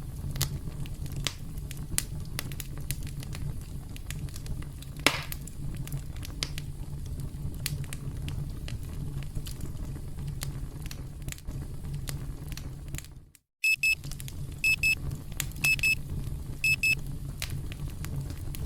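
Campfire crackling, with scattered pops over a low rumble. About 13 s in the sound cuts out briefly, then an electronic alarm beeps over the fire in short bursts about once a second, signalling that the countdown timer has run out.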